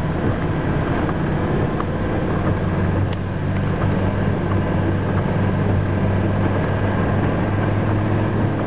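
Land Rover engine running steadily with road noise, a constant low hum.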